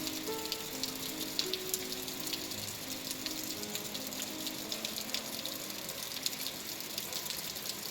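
Steady rain, with many individual drops ticking close by. Soft background music notes sound beneath it and thin out in the second half.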